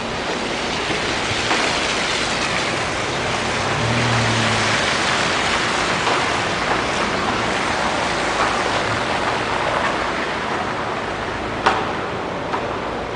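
Street traffic: a car going by, its steady tyre hiss swelling through the middle and fading, with a brief low hum about four seconds in and a sharp click near the end.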